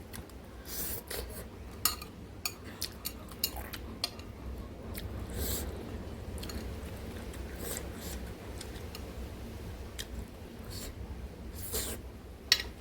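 Eating noodles: utensils clicking sharply against a bowl a dozen or so times, the loudest click near the end, with chewing in between.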